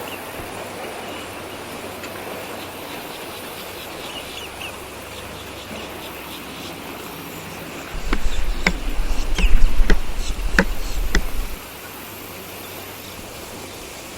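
Outdoor ambience with faint insect chirping. About eight seconds in, a loud low rumble starts, with about six sharp cracks over three and a half seconds, then it stops suddenly.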